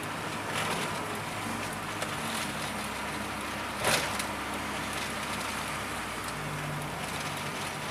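Square-body VW Voyage's carburetted AP four-cylinder engine running as the car drives, heard from inside the cabin, its note shifting a few times. A brief sharp knock about four seconds in.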